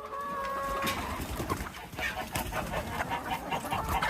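Birds calling: one held, pitched call in the first second, then quick, short clucking notes through the rest.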